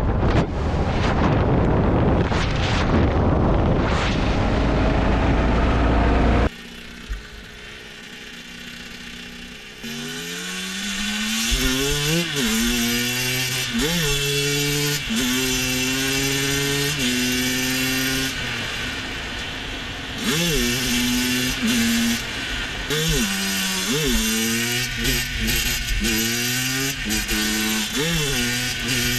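A motorcycle engine accelerating through the gears. Its pitch climbs, falls sharply at each shift and climbs again several times, with a few steady stretches in between. The first few seconds hold loud, rushing engine and wind noise.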